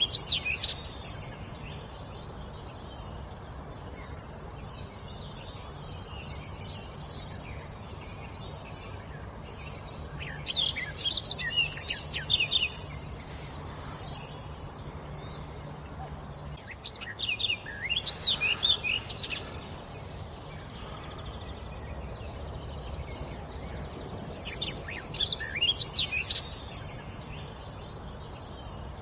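A wild songbird singing in four short phrases of quick, varied high notes, spaced several seconds apart, over a steady background hiss.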